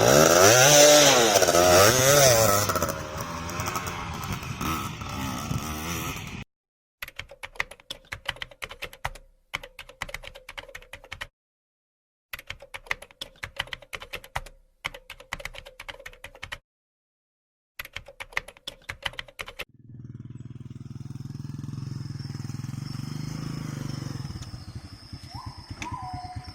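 Trail dirt-bike engine revving hard, its pitch rising and falling, then running at low revs in short choppy stretches cut off by sudden silences. A steadier running engine follows near the end.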